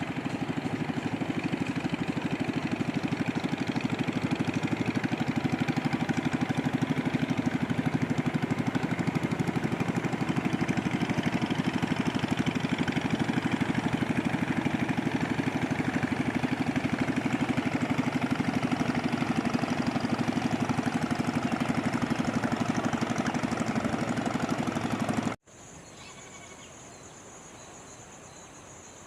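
A small engine running steadily with a fast, even pulse, which cuts off abruptly about 25 seconds in. After the cut a steady high insect trill and a faint hiss are left.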